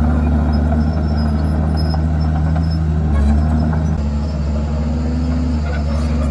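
Komatsu D51PX bulldozer's diesel engine running steadily, with a slight change in its note about three seconds in.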